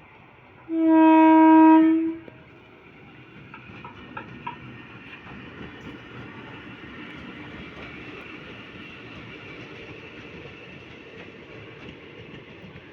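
Train locomotive horn sounding one loud blast of about a second and a half, then the steady rumbling noise of a train running on the rails, with a few clicks.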